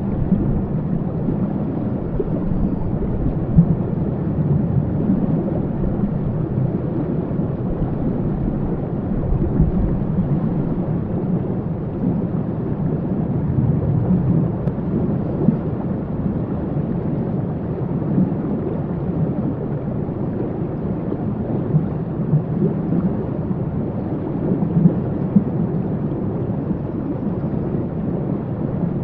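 Waterfall rushing steadily: a dense, low-pitched roar of falling water with no breaks.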